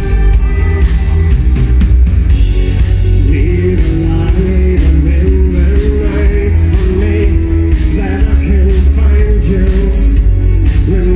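Live band music at loud concert volume, with a heavy steady bass and a wavering melodic line over it.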